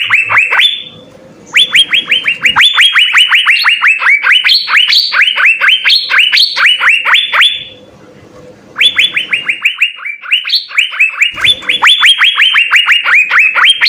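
Asian fairy-bluebird (cucak biru) singing loudly in long, rapid runs of sharp downslurred notes, several a second, some pitched higher, with a pause of about a second midway.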